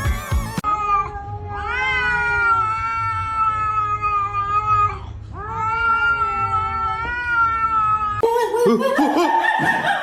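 Cat yowling: a short cry, then two long drawn-out yowls of about three seconds each, each rising at the start and then held. About eight seconds in, it gives way to a jumble of other noises.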